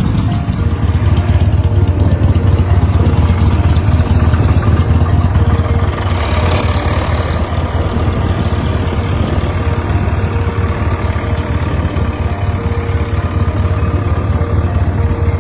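Swaraj 735 tractor's three-cylinder diesel engine idling steadily with a rapid diesel clatter, with a brief rise in hiss about six seconds in.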